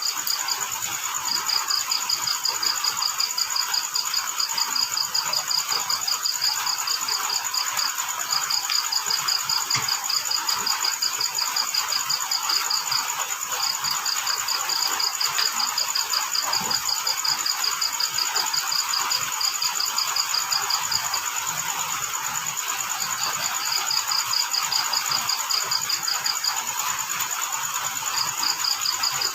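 Crickets chirping: long trains of rapid, even pulses that run for several seconds and break off briefly before starting again, over a steady high-pitched insect trill and a constant hiss.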